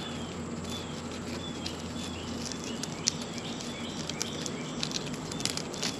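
A bird chirping over and over, short high notes about twice a second, over a faint steady hum. A few sharp clicks come near the end.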